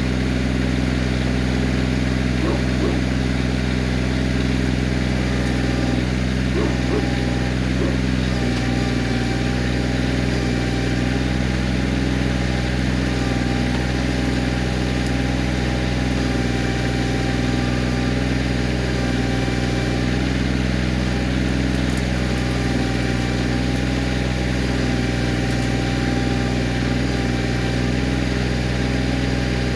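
Kioti CK20S compact tractor's diesel engine running steadily at constant speed, with a thin steady whine joining about eight seconds in.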